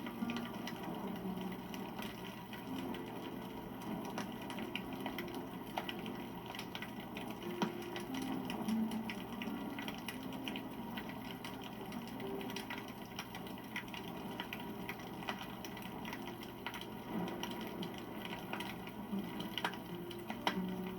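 Wood fire crackling, with irregular sharp snaps and pops over a low hiss of burning.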